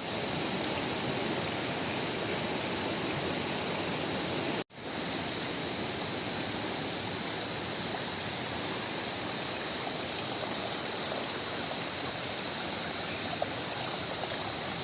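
Rushing water from a stream or waterfall, a steady even rush, with a steady high-pitched note above it. The sound drops out abruptly for a moment about a third of the way through, then resumes.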